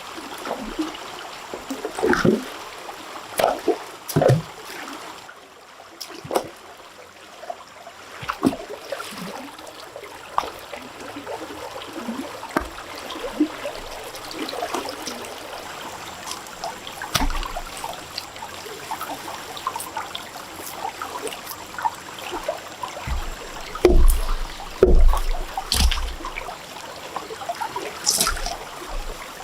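Water trickling and splashing, with scattered clicks and knocks throughout and a few heavier thumps about twenty-four seconds in.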